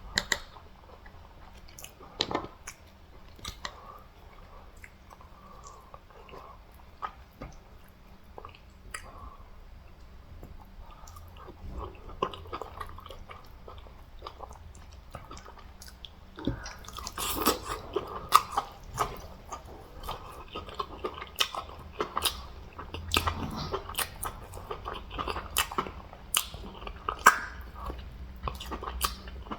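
A person chewing and biting a meal of fufu, catfish soup and meats close to the microphone, with sharp mouth clicks. The chewing gets busier and louder a little past halfway.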